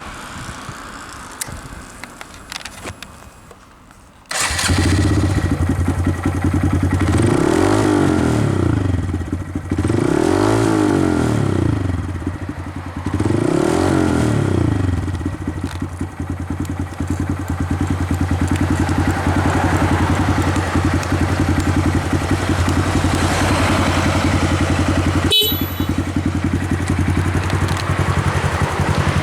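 Honda Grom's 125 cc single-cylinder four-stroke engine with an aftermarket exhaust, coming in abruptly about four seconds in, revved three times, then idling steadily.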